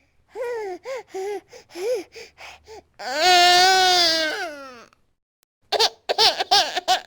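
Infant crying in a rage: a run of short, choppy sobbing cries, then one long loud wail about three seconds in, and after a brief pause a quick burst of short sobs near the end.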